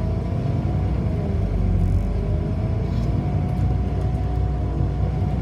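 City bus in motion, heard from inside: a steady low rumble of drivetrain and road, with a whine that slowly rises and falls in pitch as the speed changes.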